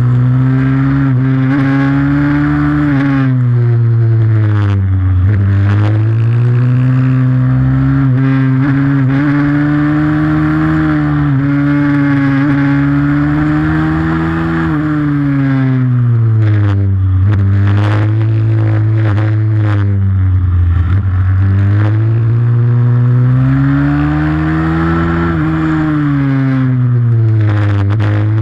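Pit bike's single-cylinder engine under hard riding, its pitch climbing steadily for several seconds and then dropping off again, about five times over, as it accelerates and slows.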